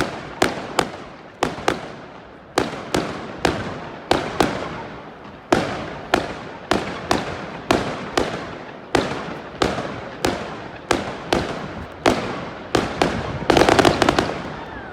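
Fireworks display: a run of sharp bangs, about two a second, each trailing off with an echo, and a dense burst of crackling near the end.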